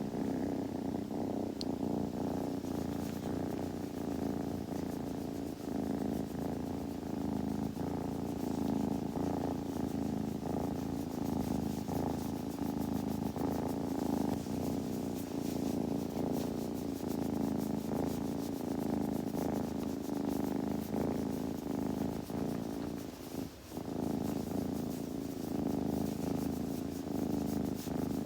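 Kitten purring steadily, close to the microphone, with one brief break about three-quarters of the way through.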